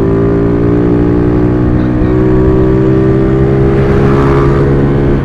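Motorcycle engine running at steady high revs while riding, with wind noise on the helmet microphone.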